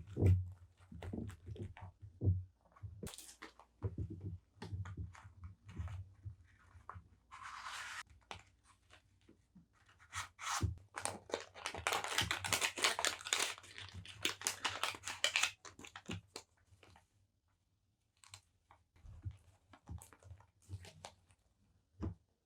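Paper and packaging handled up close: taps and soft knocks, a brief rustle, then several seconds of continuous crinkling and tearing, ending in a few scattered light taps.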